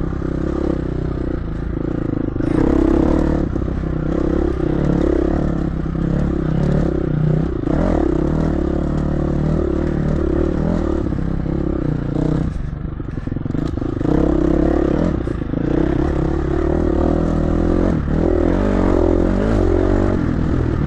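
Dirt bike engine running under constantly changing throttle while being ridden through whoops, its pitch wavering up and down, with a brief easing off a little past halfway.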